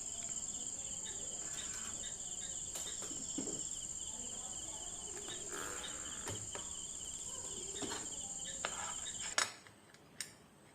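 Crickets chirping steadily in the background, a fast pulsing trill under a higher constant shrill, with a few light clicks of small handling; it all cuts off suddenly about nine seconds in.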